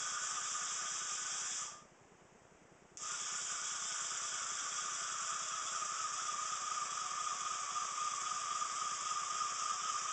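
Likes Line electric retracts, geared electric motors turning jack screws, running with a steady whine; they stop abruptly about two seconds in as the micro switches halt the gear at its limit, then start again about a second later as the gear is switched the other way.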